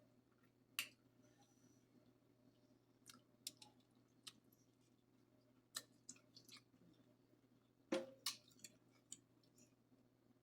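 Close-miked chewing of seafood in butter sauce: scattered short wet mouth clicks and smacks, a cluster of them about eight seconds in, over a faint steady hum.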